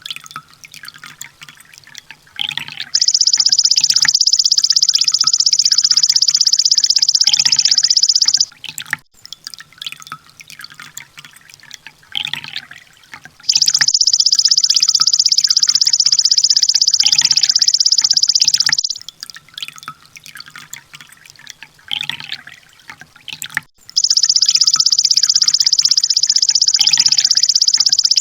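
Recorded sunbird song: a long, very rapid, high-pitched trill lasting about five seconds, repeated three times about ten seconds apart, with quieter short chirps and drip-like ticks in between.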